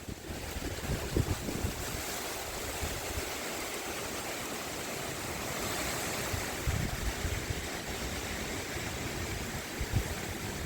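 Steady rushing of breezy wind through trees and foliage, with gusts buffeting the microphone in low thumps now and then, a little after 1 s, near 7 s and near 10 s in.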